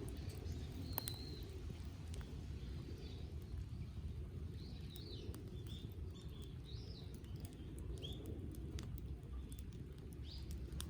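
Small birds chirping in short, scattered calls over a low steady rumble, with a few sharp crackles from a wood campfire.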